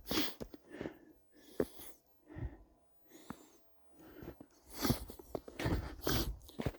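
Footsteps in snow: separate steps with quiet between them, coming closer together in the last few seconds.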